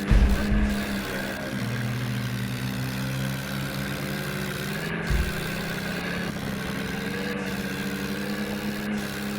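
Swaraj tractor's diesel engine running at a steady speed, with a couple of low thumps, one just after the start and one about five seconds in.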